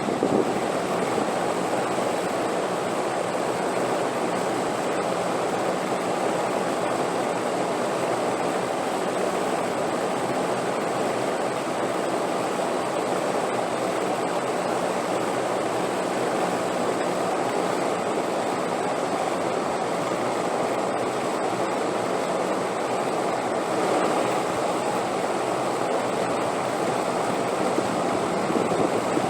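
Steady wind noise: a continuous, even rush without distinct gusts, swelling slightly near the end.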